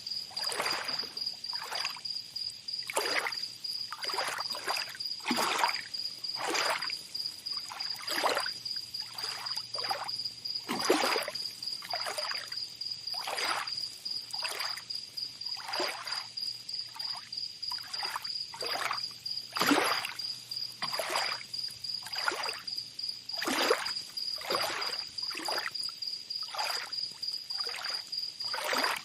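Small waves lapping and splashing at the water's edge, a short wash about once a second, over a steady high insect trill.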